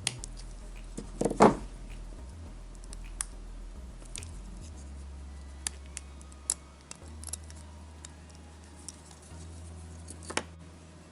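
Clicks and knocks of the small plastic sun sensor and its housing being handled and worked at, with a louder knock about one and a half seconds in and scattered sharp clicks after, over a low hum.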